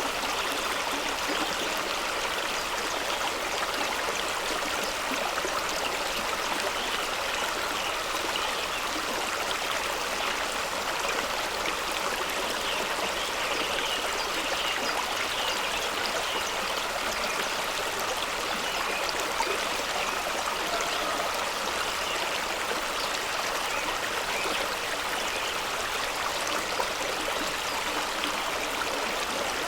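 A fast-running stream rushing over rocks. The rush of water is steady and even, mostly in the middle and high range with little deep rumble.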